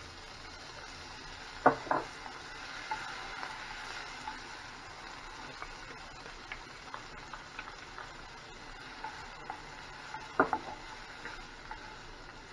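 Diced onion, red bell pepper and garlic sizzling in hot olive oil in a stainless steel skillet while being stirred with a spatula. A few sharp knocks against the pan, the loudest about two seconds in and about ten seconds in.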